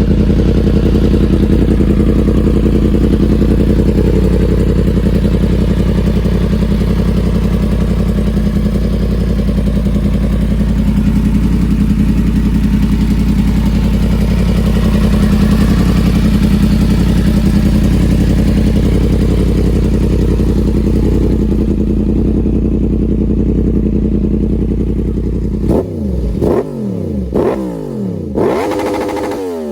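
Yamaha MT-10's crossplane inline-four running through an Austin Racing exhaust, idling steadily, then revved in a few quick blips near the end, each pitch rising and dropping back fast.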